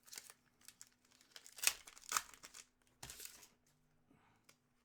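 Crinkling and crackling of wrappers as hockey card packs are handled between card reveals, in irregular bursts with the loudest crackles about halfway through.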